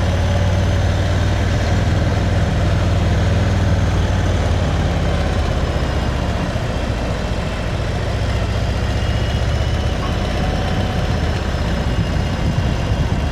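Motorcycle engine running steadily while riding, a constant low rumble with road and wind noise.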